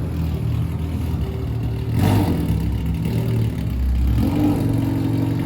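Honda K24 four-cylinder engine in a K-swapped Civic race car running steadily, its speed stepping up a little about four seconds in and holding higher.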